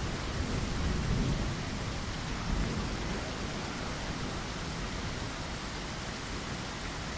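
Steady heavy rain hissing, with a low roll of thunder rumbling in the first couple of seconds and fading out.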